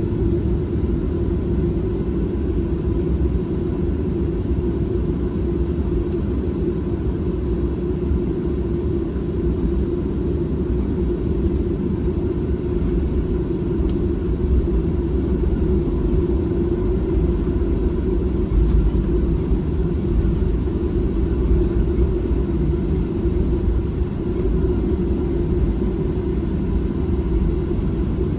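Boeing 737-700's CFM56 jet engines running with a steady low rumble, holding level with no rise in thrust, and a faint steady whine above it.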